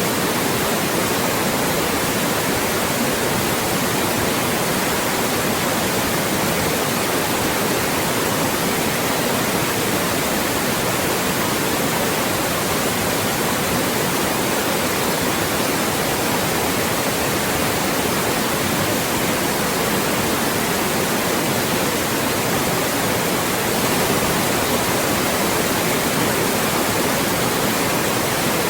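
Loud, steady white noise: an even, unchanging hiss across the whole range of pitch.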